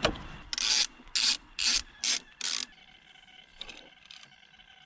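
Ratchet wrench worked in five short rasping strokes, about two a second, followed by a few faint ticks, with the engine off.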